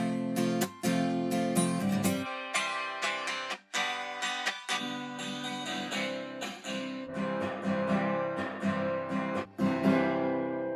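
Guitar music: plucked notes and strummed chords played through a convolution reverb, with the last chord ringing out and fading near the end.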